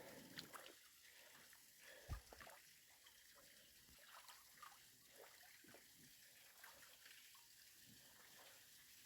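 Faint trickling and dripping of a small waterfall, with scattered small ticks of drops and one short low thump about two seconds in.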